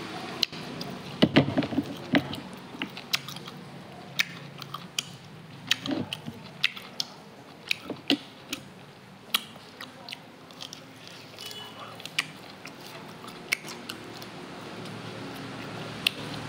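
Close-up chewing and biting sounds of someone eating boiled beef: irregular sharp mouth clicks and smacks, bunched together about a second in and then coming about once or twice a second.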